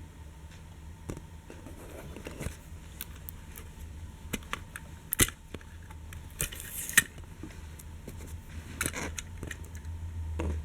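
Die-cast toy train model being handled: scattered small clicks and knocks, with a brief rustle about six and a half seconds in, over a low steady hum.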